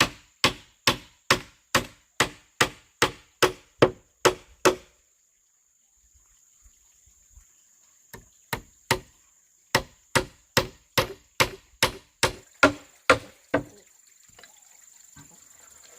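A tool strikes bamboo over and over in a quick, even rhythm, about two blows a second. The blows stop for about three seconds midway, then start again for another run of a dozen or so.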